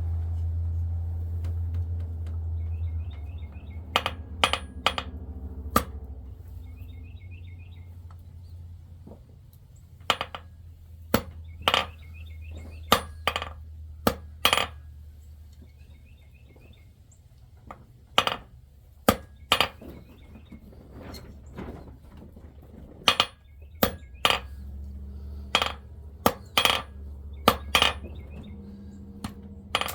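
Hammer striking silver on an anvil while forging a ring: sharp, clinking blows in irregular groups of two to four, over a low steady hum.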